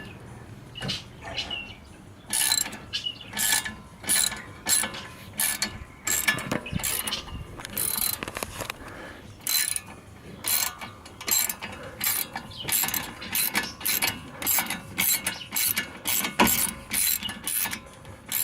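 Hand ratchet with a 7 mm Allen (hex) bit clicking in repeated short back-strokes while undoing a front brake caliper bolt. The runs of clicks start about two seconds in and come about one to two a second.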